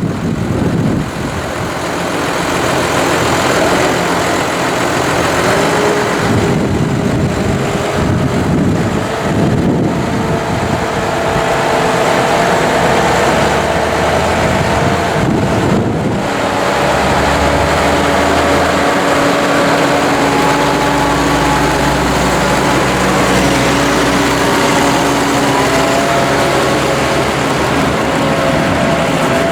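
Case IH Puma 150 tractor's six-cylinder diesel engine running, its pitch shifting several times as engine speed changes, with a heavier low rumble in the second half.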